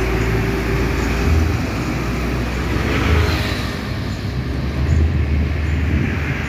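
Heavy truck engine running, with a low uneven rumble and road traffic noise; a swell of hissing noise rises and fades about halfway through.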